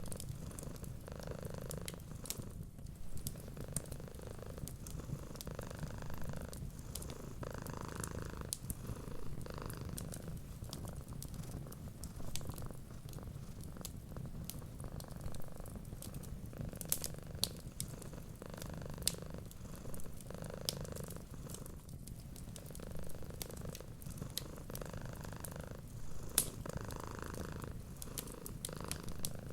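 Cat purring steadily, swelling and easing with each breath every second or two, over a wood fire crackling with scattered sharp pops.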